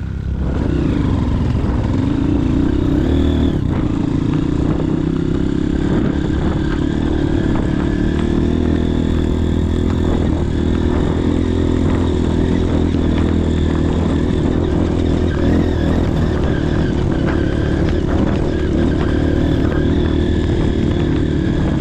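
Motorcycle engine running hard at steady high revs under load, throttle held open, with clattering and knocks from the bike over rough ground.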